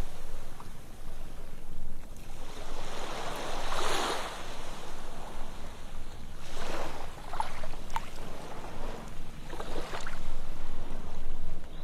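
Ocean waves washing onto a sandy beach, each surge swelling and fading about every three seconds, with light fizzing of the receding water between them.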